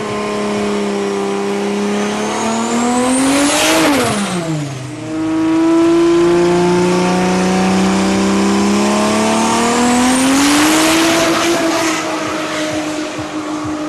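Drag-racing car engine at full throttle accelerating down the strip. Its pitch climbs and then drops sharply as it passes about four seconds in. A second stretch of hard-running engine follows, rising in pitch again near eleven seconds.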